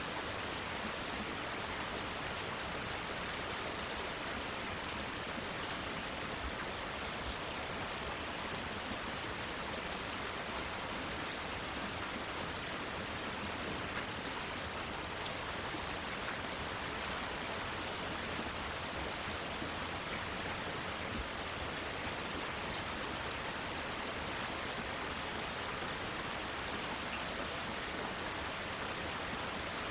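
Steady rain falling, an even hiss of many drops with faint scattered patters on leaves and surfaces.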